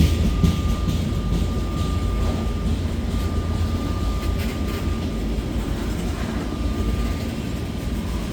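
Freight cars of a slow, heavy grain train rolling past: a steady low rumble with a thin high whine, and a few wheel clicks in the first second.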